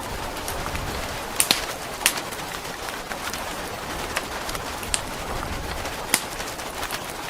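Steady rain hiss with a fire crackling over it: scattered sharp pops and snaps, a few louder ones about 1.5 and 2 seconds in and again near 6 seconds.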